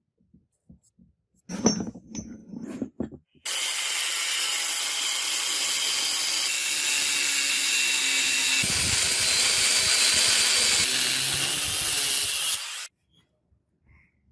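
A few handling clicks and knocks, then a power tool running steadily for about nine seconds, starting and stopping abruptly.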